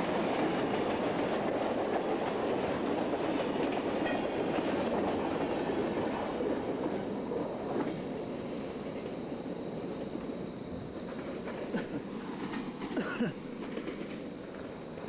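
Freight train of empty centerbeam flatcars rolling past, with wheels clattering over the rail joints. The noise fades as the end of the train passes and moves away, and a few sharp knocks come near the end.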